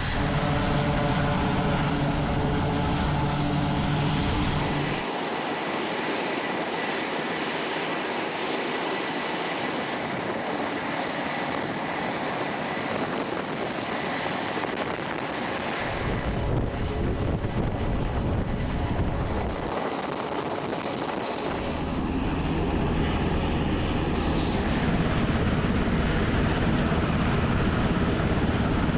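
Aircraft engines running on a carrier flight deck: a loud, steady engine noise with a high whine. Its character changes abruptly several times.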